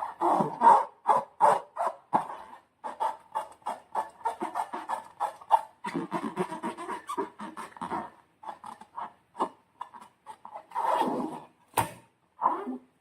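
Slime being squished and worked by hand: a string of irregular sticky clicks and squelches that thins out partway through, then a sharper louder click shortly before the end.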